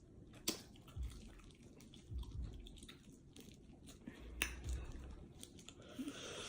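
A person chewing and eating seafood boil close to a phone microphone: faint, with soft low thumps and two sharp clicks, one about half a second in and one about four and a half seconds in.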